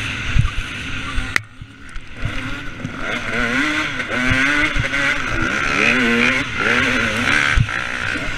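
Two-stroke motocross bike engine, a KTM 250 SX, riding hard on a track: the revs climb and fall again and again through throttle and gear changes, with the throttle shut briefly about one and a half seconds in. Several short low thuds sound through it.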